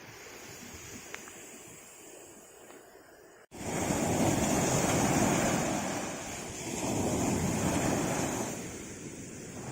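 Sea waves washing on a shore, quiet at first, then an abrupt cut about a third of the way in. Two louder surges of surf follow, each swelling and easing off.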